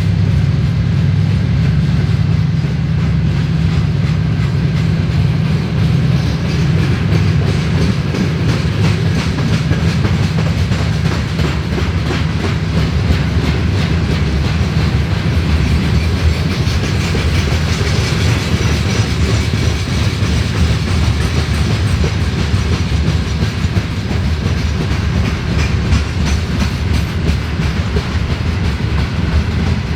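Freight train wagons rolling past at speed: a steady rumble with continuous clickety-clack of steel wheels over the rail joints. The low rumble is heavier in the first part and eases later on.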